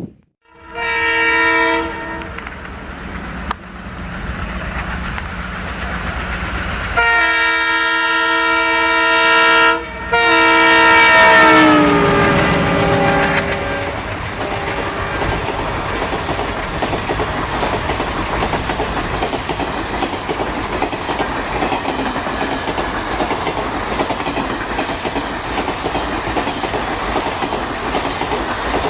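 Diesel locomotive horn, a short blast and then a long one that slides down in pitch as the locomotive passes, followed by the train rolling by with its wheels clattering over the rail joints.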